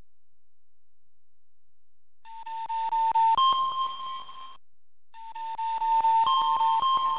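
Electronic alert tones from a live seismic monitor: a beeping tone that steps between two close pitches over a run of rapid clicks. It starts about two seconds in, breaks off briefly past the middle, then starts again.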